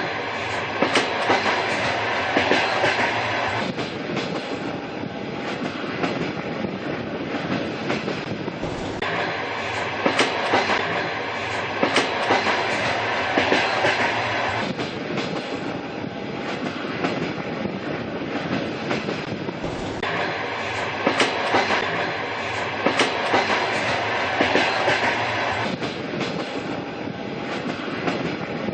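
A train running along the rails: a steady rumble with clusters of sharp clickety-clack knocks as the wheels pass over rail joints.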